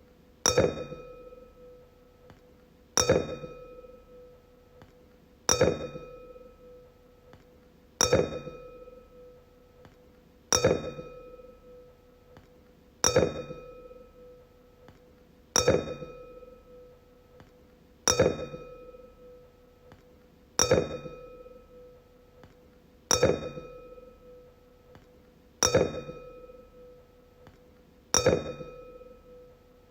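Wine glass struck again and again, about once every two and a half seconds. Each strike is a sharp clink followed by a clear, fading ring.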